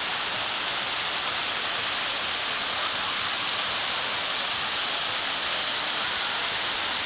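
A waterfall's water falling and splashing in a steady, unbroken hiss.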